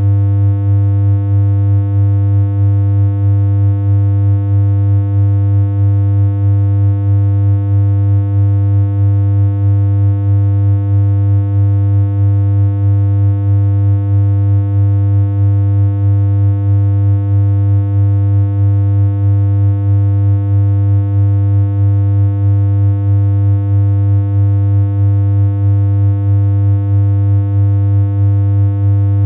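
Steady electronic hum: a low synthesized tone with a buzzy stack of overtones, holding one pitch with a slight regular pulsing in loudness.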